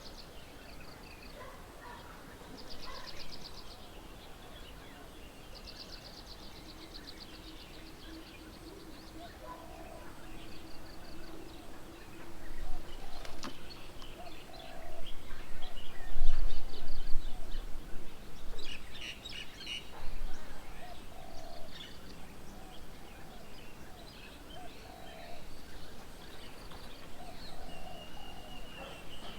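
Several small birds chirping and calling, with fast high-pitched trills repeated in the first few seconds. About halfway through, a low rumble is the loudest sound for a couple of seconds.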